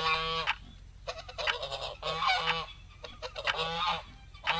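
Domestic turkey gobbling: a series of separate rapid, warbling calls about a second apart.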